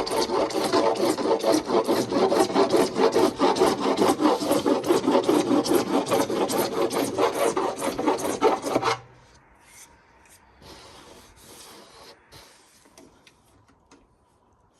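Hand file rasping the sharp cut edge of a PVC pipe in quick, even back-and-forth strokes, with the pipe ringing a little. It stops abruptly about nine seconds in, leaving only faint handling sounds.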